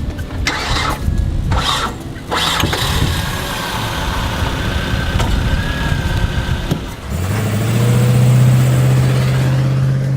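Car engine starting: noisy cranking bursts early on, then the engine catches and settles into a steady, loud running hum about seven seconds in.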